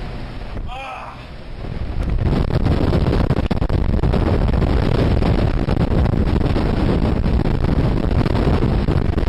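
Blizzard wind blowing hard across the microphone, setting in loud about two seconds in and staying gusty and rumbling.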